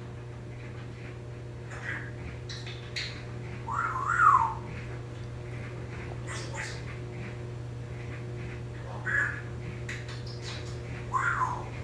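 African grey parrot giving a handful of short whistled calls and squawks, spaced a few seconds apart; the loudest, about four seconds in, rises and falls in pitch. A steady low hum runs underneath.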